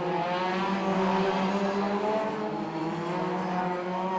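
2-litre hot rod race cars running hard on an oval track, several engines overlapping as the pack goes by, loudest about a second in and fading slowly after.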